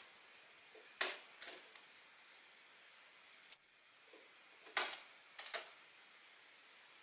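Orange-headed thrush call notes: a short, thin, very high note about halfway through, then a few sharp chip calls about a second later. A steady high insect-like trill runs until about a second and a half in, then stops.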